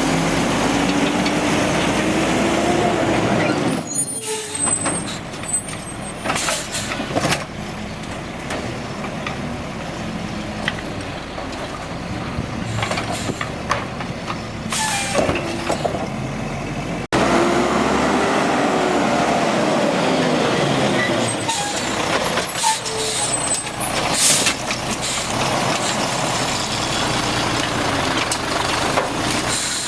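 Automated side-load garbage truck at work: the diesel engine revs up with a rising pitch, followed by short hisses of air and knocks. After an abrupt cut about 17 seconds in, the same rev, hiss and knock pattern repeats.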